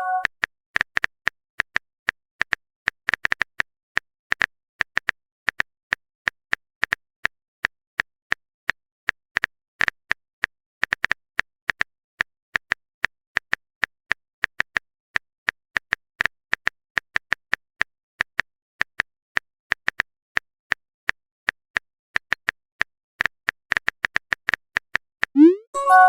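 Phone keyboard typing sound effect: a long stream of quick, irregular clicks, several a second. Near the end, a short rising swoop and a brief chime, like a message-sent alert.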